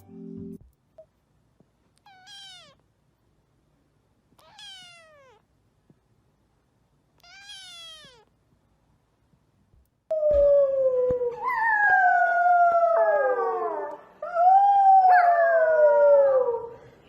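A cat meows faintly three times, each meow falling in pitch. About ten seconds in come two long, loud howling calls, each sliding down in pitch.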